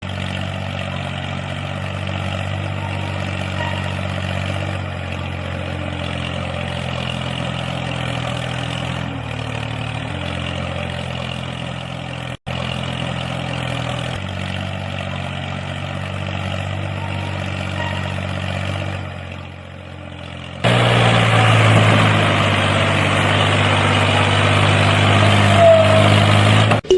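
Engine running steadily at idle with a low, even hum, cut off for an instant about halfway through and running louder for the last six seconds.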